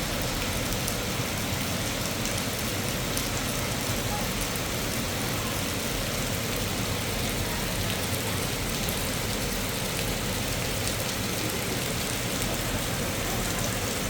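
Heavy rain falling steadily: a dense, even hiss with scattered sharp ticks of drops striking surfaces.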